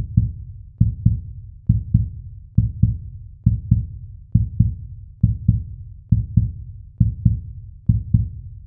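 Heartbeat-like pairs of deep thumps, a steady lub-dub repeating a little less than once a second, as in an intro sound effect or beat.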